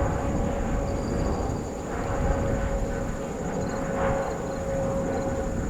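Jet airliner engines running: a steady, loud rumble with a high held whine over it.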